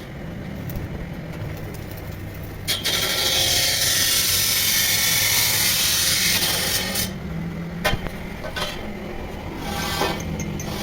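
Tractor engine running steadily, with a loud rasping hiss for about four seconds in the middle and a few sharp knocks afterward.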